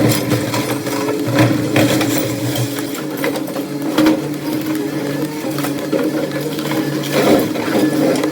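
An engine running steadily with a constant hum, with scattered knocks and clatter over it.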